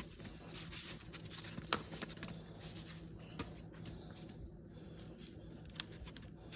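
Faint handling noises: scattered light clicks and taps with a little rustling, and one sharper click nearly two seconds in.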